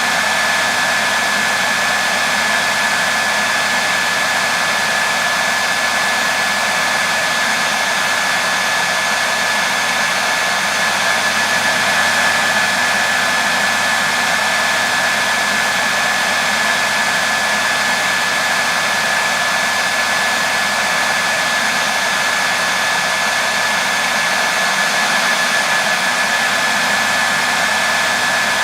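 Hair dryer running steadily: an even airy rush with a constant high whine from its motor.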